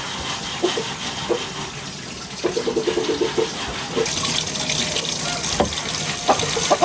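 Water running and splashing, as from pouring or a tap while filling or washing, louder from about four seconds in.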